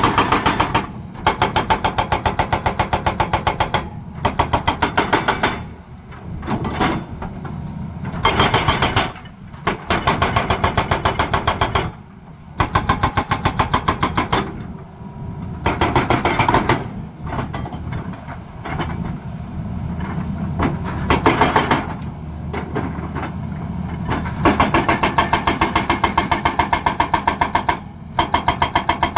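Excavator-mounted hydraulic breaker hammering in bursts of rapid, even blows lasting one to four seconds, stopping and starting again many times, with the excavator's diesel engine running steadily underneath.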